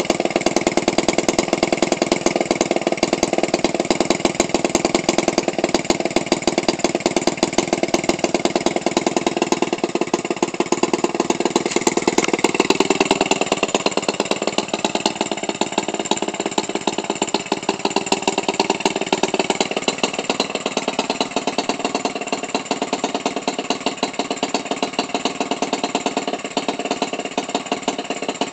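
Toro 28cc string-trimmer gasoline engine, converted for radio-control airplane use, idling steadily at about 1500 RPM with a rapid, even firing beat.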